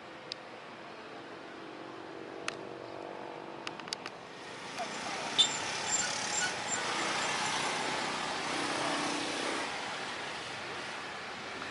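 Jet airliner engine noise: a broad rushing sound that swells about four or five seconds in and eases off near the end, with a few sharp clicks before it.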